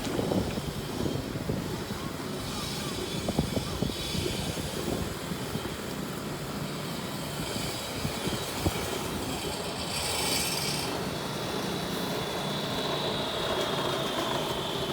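Outdoor road traffic noise with a low rumble and a few short knocks; in the last few seconds a thin high tone slowly falls in pitch.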